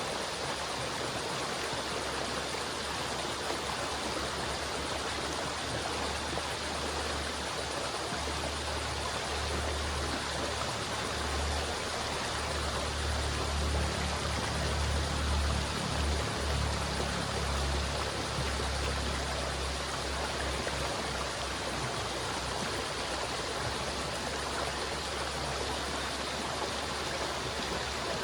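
River water flowing steadily, an even rushing with a deeper low rumble swelling up through the middle.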